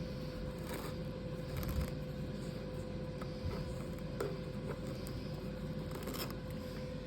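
Cordless stick vacuum running with a steady hum while its brush roll is clogged with hair, with a few light clicks and scrapes.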